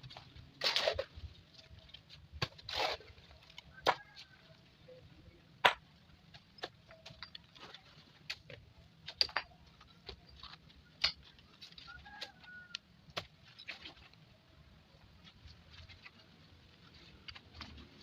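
Scattered sharp knocks and short scrapes at an uneven pace, loudest in the first few seconds, with a chicken clucking faintly about four seconds in and again about twelve seconds in.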